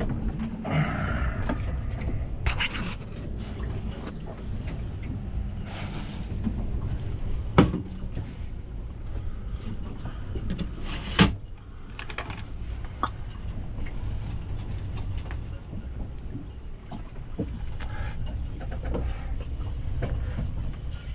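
Steady low rumble aboard a small boat, with scattered knocks and clatters; two sharp knocks stand out, about seven and a half seconds in and again about eleven seconds in.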